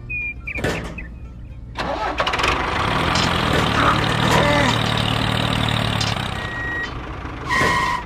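An engine cranks and starts about two seconds in, then runs steadily; a short beep sounds near the end.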